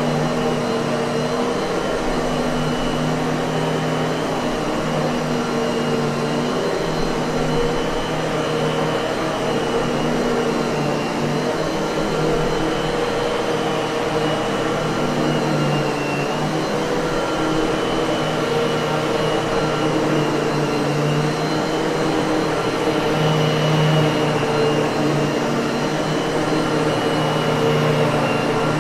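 Miele vacuum cleaner motor running steadily, a continuous whoosh of airflow over a constant hum, with a high whine near the top.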